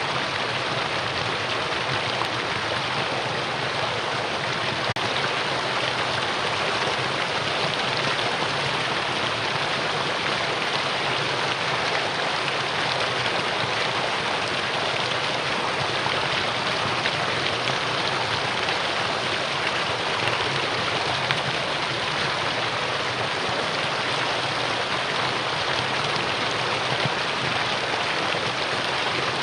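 Mountain valley stream running over rocks: a steady, unbroken rush of water.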